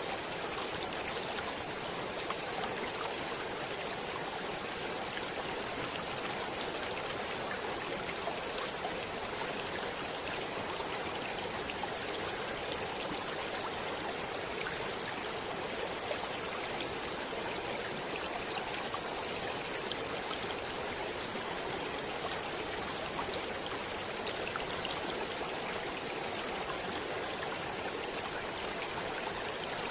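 Stream water running steadily over rocks, an even rushing wash of flowing water flecked with small splashes.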